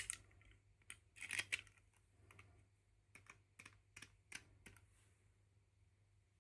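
About a dozen light, irregular clicks and taps of small hard plastic toy pieces being handled.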